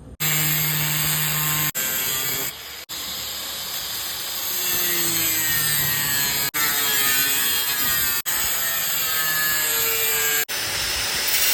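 A power tool cutting through thin sheet metal, a steady loud grinding hiss whose pitch wavers as it works. It comes in several short stretches with abrupt cuts between them.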